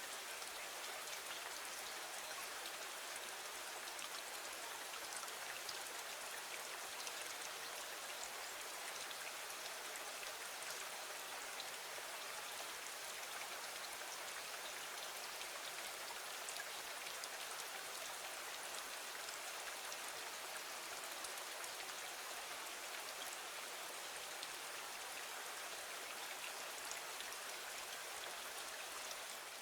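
Steady rain falling against a window, an even hiss with faint scattered ticks of drops.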